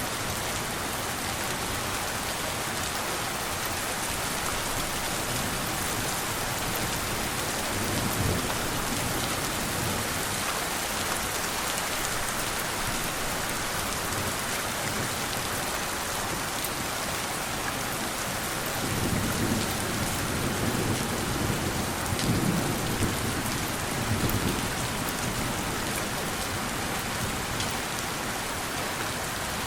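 Steady rain falling, with low rolls of thunder about eight seconds in and again from about nineteen to twenty-five seconds in.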